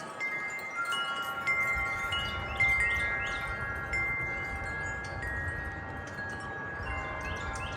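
Metal wind chimes ringing in gusty wind: tubes struck at irregular moments, their tones overlapping and ringing on, over a low rush of wind.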